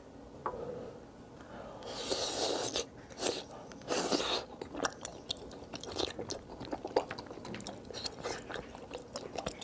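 A person eating cheese close to the microphone: wet chewing and smacking with many small clicks, and two louder rushes of noise about two and four seconds in.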